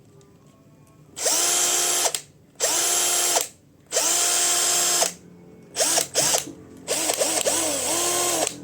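Cordless hammer drill's motor run in repeated short trigger pulls: each burst spins up to a steady whine and winds down when released. After about a second of quiet come three longer bursts, then a run of shorter, quicker ones.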